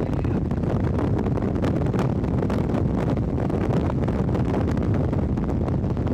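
Strong wind buffeting the microphone, heard as a loud, steady rumble.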